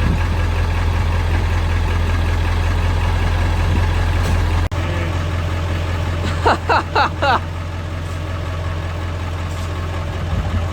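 Diesel pickup engine running at a steady low idle. The drone breaks off for an instant about halfway through, and four short high chirps come about two-thirds of the way in.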